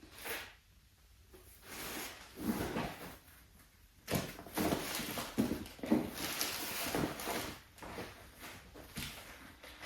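Irregular knocks, taps and scraping as parts are handled and fitted together during assembly of a flat-pack piece, busiest in the second half.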